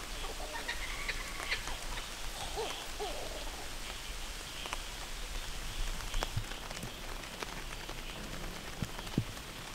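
Steady light rain falling in forest, with scattered sharp drips and taps, and a few short bird calls in the first three seconds.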